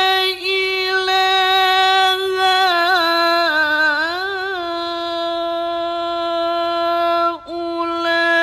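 A male qari recites the Quran in the melodic mujawwad style, drawing out a single vowel at a high, steady pitch. Midway the note wavers through a run of quick ornamental turns, then settles again. A brief break with a dip in pitch comes near the end before the held note resumes.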